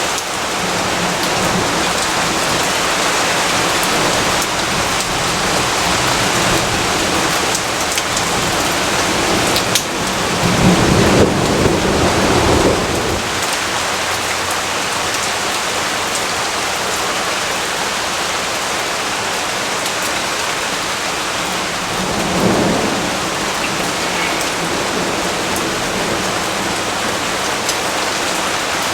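Steady heavy rainfall with rumbles of thunder: a longer roll about ten seconds in and a shorter one a little after twenty seconds.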